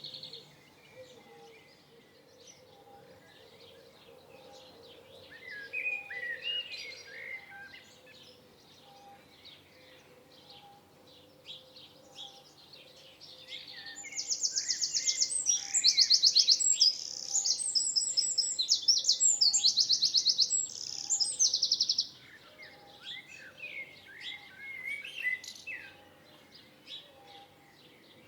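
Songbirds singing: soft scattered chirps and warbles, then near the middle a loud, fast trill of rapid high notes repeated in runs for several seconds before it stops suddenly. Softer chirping follows.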